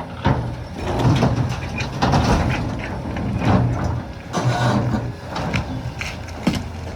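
Volvo EC380EL excavator's diesel engine running under load, with irregular knocks and scraping of rock against steel as it handles boulders.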